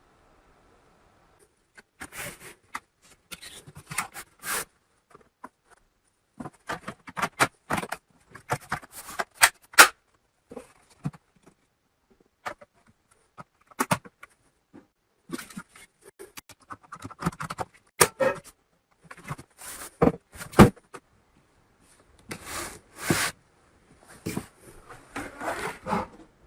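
Irregular clicks, taps and scrapes of small hard parts being handled, coming in clusters with short pauses between them.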